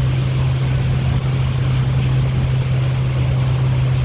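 Tour boat's engine running steadily under way, a constant low hum heard from on board, with an even hiss over it.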